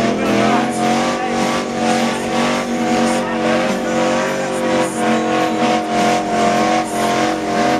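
Truck engine held at high, steady revs, wavering slightly.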